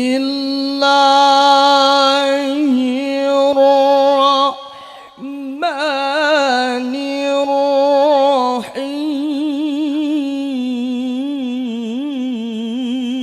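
A male qari chanting Quran recitation in the melodic tilawah style, drawing out long held notes with vibrato and ornamental turns. There is a short break about five seconds in.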